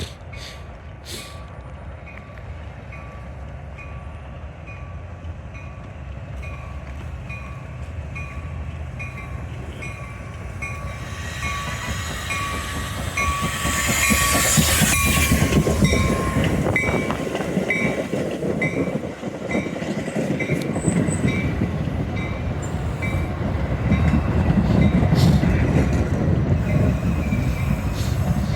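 Metra UP Northwest commuter train pulling into the station, with a bell ringing in steady strokes about twice a second. The train noise builds and peaks about halfway through as the lead end passes, then a heavy rumble of the passing cars follows.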